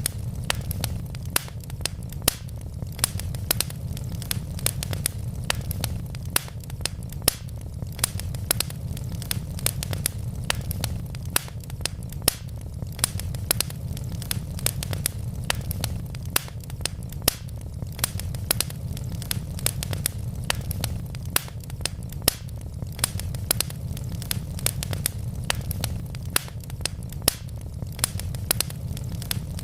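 Wood logs burning in a fireplace, crackling with many sharp pops and snaps at irregular moments over a steady low rumble.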